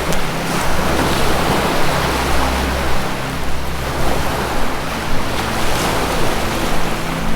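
Ocean waves breaking and washing in a continuous surf that swells and eases. Low, sustained drone tones from the 432Hz music run underneath.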